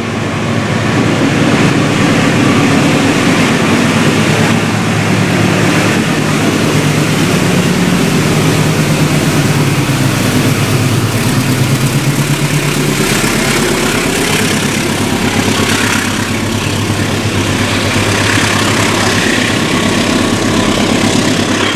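A train running close by at the platform: a loud, steady rumble with a pitched motor drone that falls in pitch partway through.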